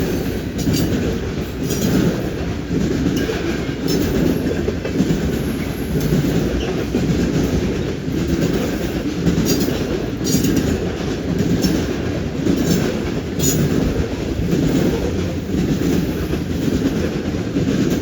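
Freight cars of a long train rolling past, steel wheels clacking over rail joints in a steady rhythm of swells about every second and a half, with scattered sharp metallic clicks.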